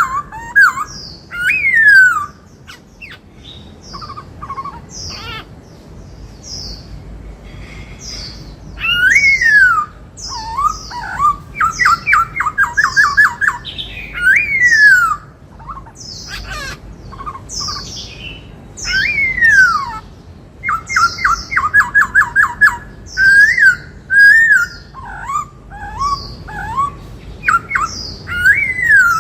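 Black-throated laughingthrush singing a loud, varied song of whistled phrases, with sweeping falling notes and rapid trills, in the 'bắt cô trói cột' style modelled on the Indian cuckoo's call.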